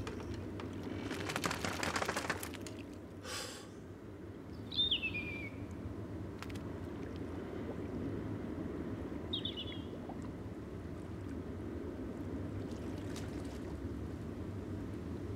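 Steady low ambience of wind and water on open water. A short rush of noise comes about a second in. A bird gives a single falling call around five seconds in and a shorter call near ten seconds.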